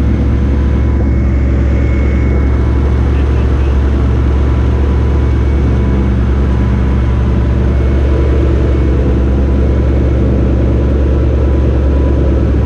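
Turbocharged Nissan Skyline RB inline-six running steadily at idle, loud and even with no revving, likely through an open downpipe.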